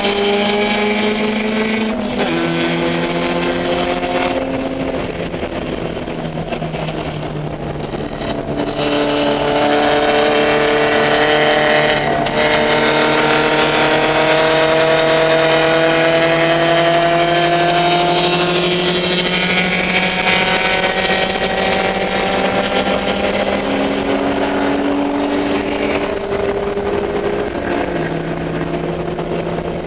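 Race-prepared Dodge Neon's four-cylinder engine running hard on track, heard from the car. The pitch steps at gear changes early on, climbs slowly for about ten seconds in the middle, then steps down again near the end.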